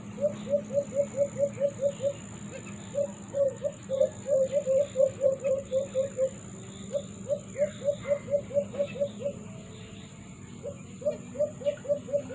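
A caged bird calling in long runs of short, quick, slightly falling notes, about four or five a second, with brief pauses between the runs.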